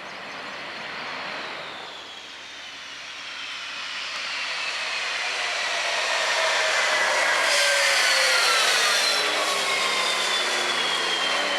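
Jet engine of a jet drag racer making its pass down the strip. The noise builds to its loudest about eight seconds in, and a whine falls steadily in pitch as it goes by and away.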